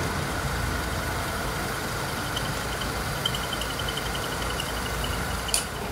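A machine running steadily with a low rumble, a faint high whine over the middle, and one sharp click shortly before the end.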